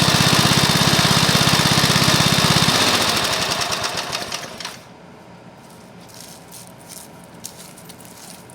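Freshly rebuilt Briggs & Stratton single-cylinder lawnmower engine, with new piston, rings and valves, running steadily. It is shut off about three seconds in and coasts down to a stop, followed by a few faint clicks.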